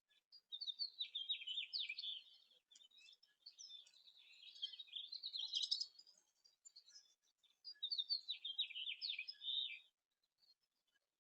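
Small songbird singing: two similar quick twittering phrases of about two seconds each, one near the start and one near the end, with busier chirping in between.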